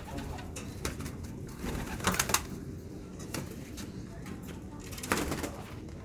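Domestic pigeons cooing, with a few sharp clicks, the loudest a pair about two seconds in and another about five seconds in.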